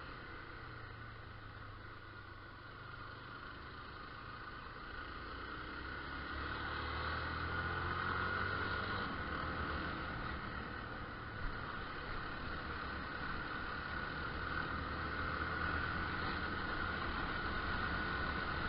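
Motorcycle riding along: its engine runs steadily under a rush of wind noise. Both get louder about a third of the way in as the bike picks up speed.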